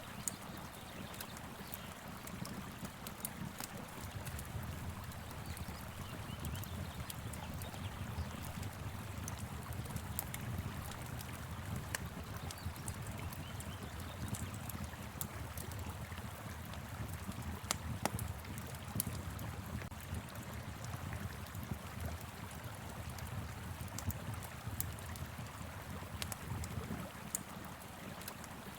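Wood fire crackling, with frequent sharp snaps and pops, over the steady low rush of a flowing river and wind.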